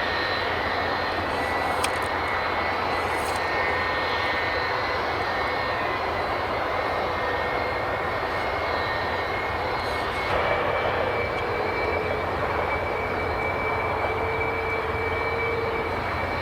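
Steady jet engine noise with a high-pitched whine: an airliner's one remaining engine running at idle while the aircraft sits stopped after an engine failure.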